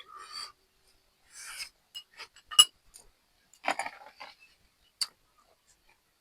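Eating utensils clinking against a dish during a meal: a few separate sharp clinks, the loudest with a short ring about two and a half seconds in, among soft rustles.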